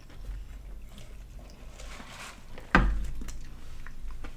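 Faint eating and handling noises, with one sharp knock nearly three seconds in.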